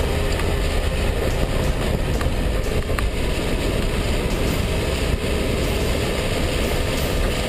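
Dacia Duster's 1.5 dCi four-cylinder diesel engine running steadily with road noise while driving.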